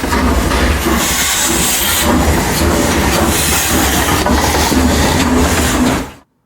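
Train running on rails, a steady rumbling and hissing clatter that cuts off abruptly about six seconds in.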